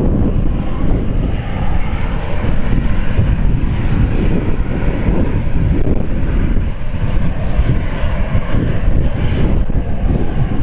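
Aircraft engines running steadily, with wind buffeting the microphone.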